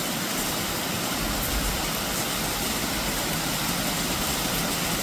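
Steady summer rain falling, an even hiss with no separate drops standing out. From about a second in there is a low rumble under it as well.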